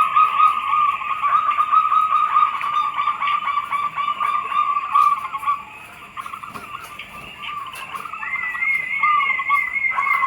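Several zebra doves cooing, their rapid trilling coos overlapping. The calling dips briefly about six seconds in, and a higher wavering call joins near the end.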